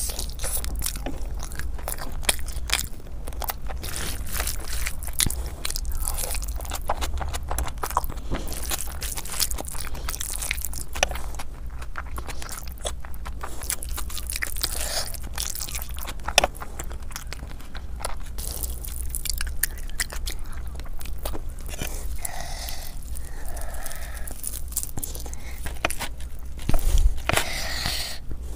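Close-miked eating sounds of someone chewing mouthfuls of biryani rice and chicken taken by hand: wet chewing and mouth noises with many short, irregular clicks. A louder burst comes near the end.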